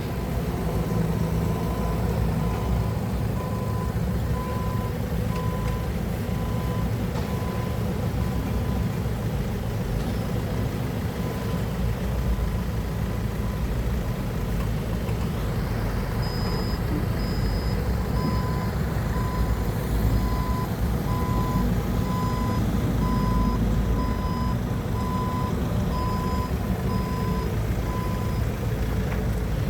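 Forklift engine running steadily while its reversing alarm beeps about once a second, through the first ten seconds or so and again in the second half.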